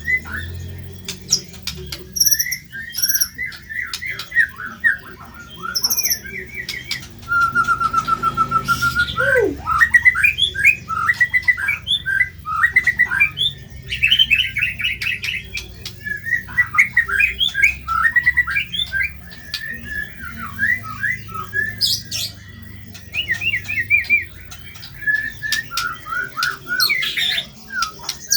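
White-rumped shama (murai batu) singing in fast runs of short, harsh, chattering notes, with a quick even trill about a third of the way in: a masteran song of rough material with lovebird-style phrases.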